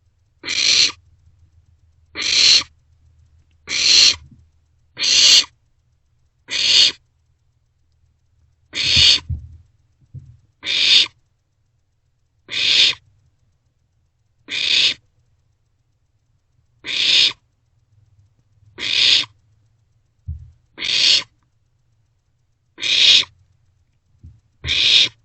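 Barn owlets giving rasping, hissing food-begging calls, about fourteen in a row, each about half a second long and coming every second and a half to two seconds.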